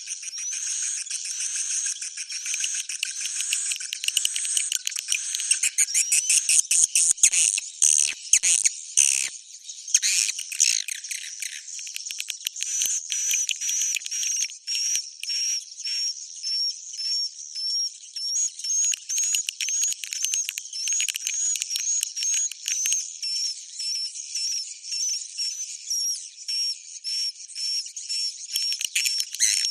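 Swiftlet roosting-call lure track (suara inap): dense, high-pitched twittering and chirping of edible-nest swiftlets, played to draw swiftlets in to roost in a swiftlet house. A louder, clickier stretch comes early, then an even run of repeated chirps a few times a second.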